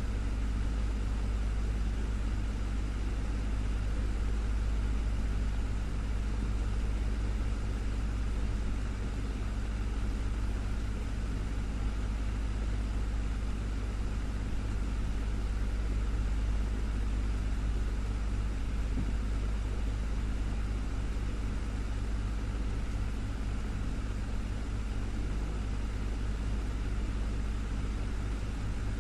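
Desktop fan running steadily: a constant low hum with an even airy whoosh above it.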